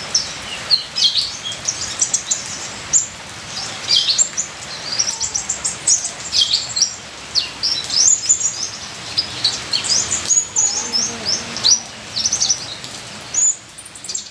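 Kolibri ninja sunbird singing a rapid, high-pitched twittering song of short chirps and quick sweeps, over a steady background hiss of trickling water.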